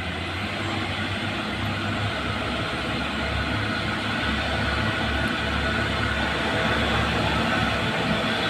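Heavy diesel truck engine running steadily under load as it pulls uphill, with a low drone that grows gradually louder as it comes closer.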